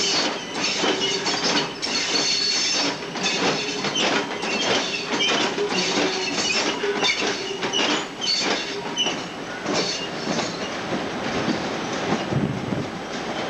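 Train wheels rolling over rail joints in a rapid, irregular clatter of clicks, with a thin high squeal from the wheels at times. Both ease off in the last few seconds.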